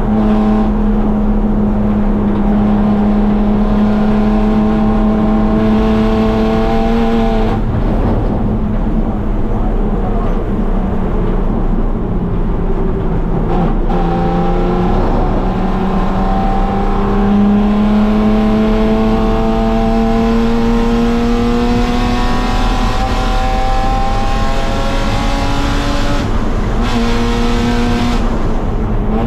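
BMW E36 325is race car's 2.5-litre straight-six heard from inside the cabin at speed on track: the engine note climbs slowly through the revs, with sudden drops in revs about 7 and 14 seconds in and again near the end, over steady road and wind noise.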